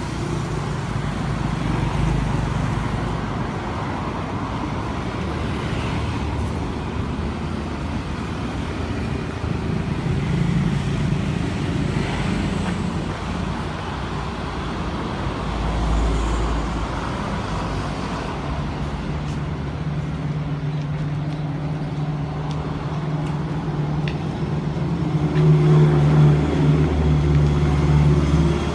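Motor vehicle engine running amid road traffic noise, a low engine hum that grows louder a few seconds before the end.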